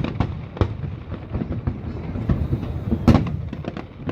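Aerial fireworks exploding in a rapid, uneven string of bangs and crackles. The loudest burst comes about three seconds in.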